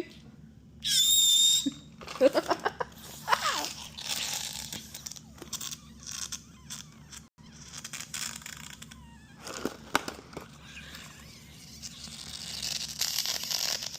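Rubber balloon being played with for sounds. About a second in there is a loud high squeal, like air let out through the stretched neck. After that come short squeaks that slide down in pitch and crinkling of the rubber, with a rushing hiss near the end.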